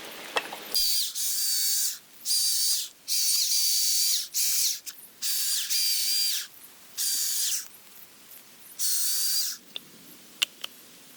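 A rasping, ratchet-like sound in about seven quick strokes with short gaps, each under a second and carrying a steady high whine. A few sharp clicks follow near the end.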